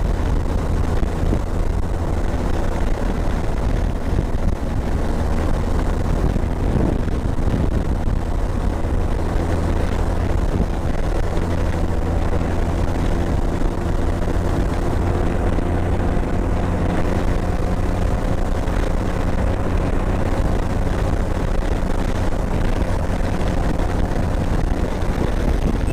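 Motorcycle engine running at a steady cruising speed on a highway, with road noise. The engine note stays even throughout.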